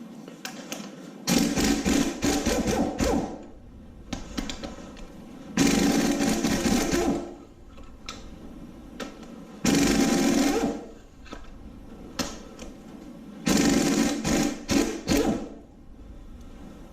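Impact wrench hammering on bolts of an LS V8 engine block during teardown, in four bursts of one to two seconds each.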